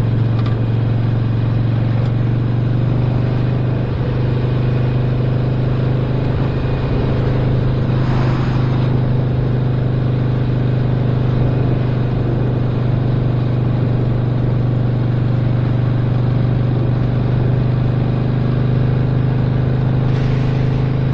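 2017 Harley-Davidson Roadster's 1200 cc V-twin, with a stage 1 upgrade, running at a steady speed under way. There is a short rush of noise about eight seconds in.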